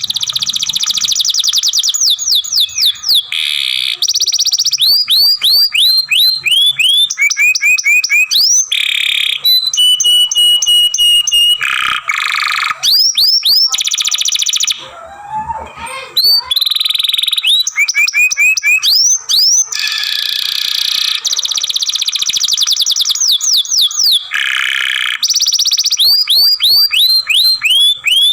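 Domestic canary singing a long, continuous song: phrases of fast repeated downward-sweeping notes and rapid trills, each phrase held a second or two before switching to the next, with a short pause about halfway through.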